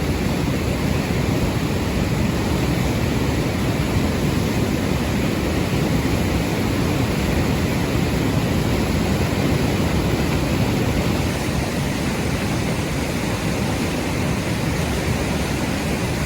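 Large waterfall's steady rush of falling water.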